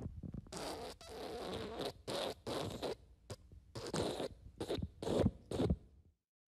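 Fart sound effects: a run of short, noisy sputtering bursts of varying length, one after another, stopping about six seconds in.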